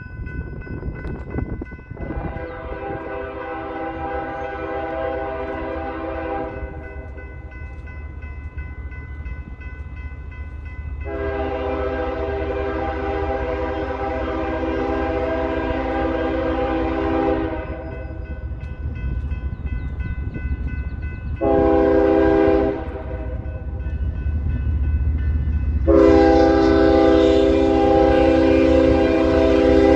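Freight locomotive air horn sounding the grade-crossing signal: long, long, short, long, several notes at once. The diesel engine rumbles underneath, and the last long blast is the loudest.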